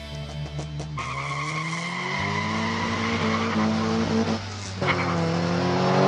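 Race-car engine sound effect: an engine revving up through the gears, climbing in pitch, dropping at a gear change about four and a half seconds in, then climbing again before cutting off suddenly at the end.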